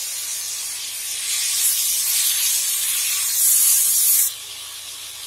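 Onions and freshly added tomatoes sizzling in hot oil in an aluminium pan as they are stirred with a wooden spatula. The hiss swells about a second in, is loudest near four seconds, then cuts off abruptly.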